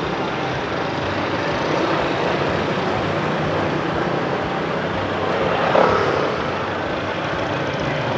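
Steady street traffic noise of motorbikes and cars going by, with one louder vehicle passing close about six seconds in.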